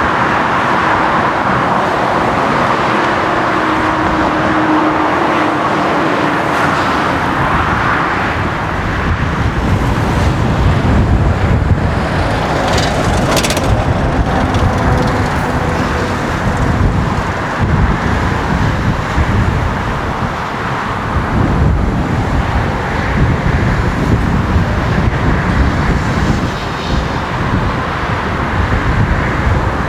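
Airliner jet engines running loud and steady: a Boeing 787-9's engines, then, after a change about ten seconds in, an Airbus A330-300's engines with a deeper low end.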